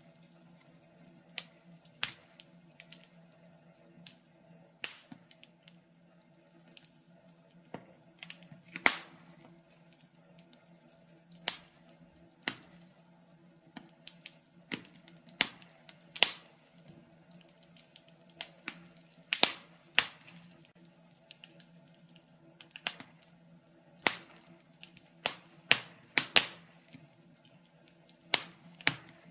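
Wood fire crackling in a fireplace: sharp, irregular pops and snaps, some in quick clusters, over a faint steady low hum.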